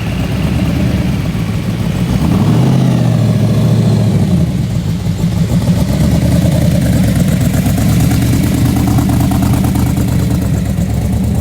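Car engine running at close range, its pitch rising in a short rev about two seconds in and settling back to idle a couple of seconds later.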